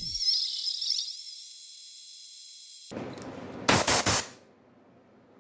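Compressed air let out in a short, loud, uneven hissing blast about three-quarters of a second into the second half, after a faint high hiss.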